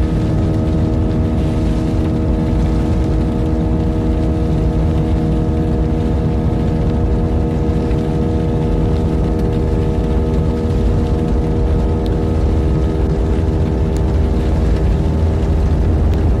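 Jet airliner on its takeoff run or climb, its engines and airflow making a steady loud drone: a deep rumble with several fixed humming tones over it that hold pitch throughout.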